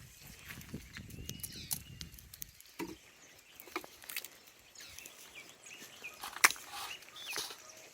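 Scattered sharp clicks and knocks, the loudest about six and a half seconds in, with a low rustling in the first couple of seconds and a few short, high bird chirps.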